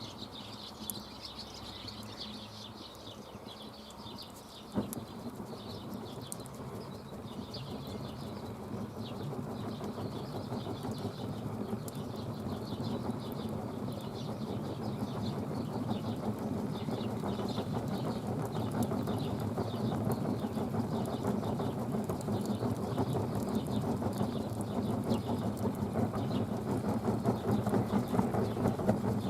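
Campfire crackling and popping, growing steadily louder, with one sharp snap about five seconds in.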